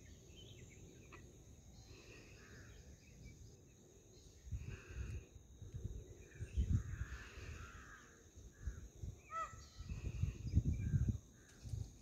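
Birds calling now and then, with one clearer call that sweeps quickly in pitch about nine and a half seconds in. Bursts of low rumbling noise come and go and are loudest a little after halfway and again about ten seconds in.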